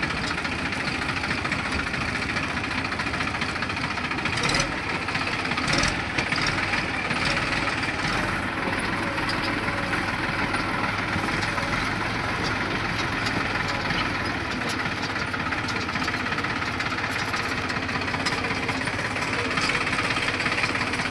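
Deutz-Fahr tractor's diesel engine running steadily, with a few knocks about five seconds in.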